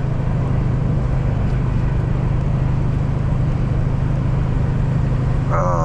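A motor vehicle's engine idling steadily, a constant low hum with no change in pitch.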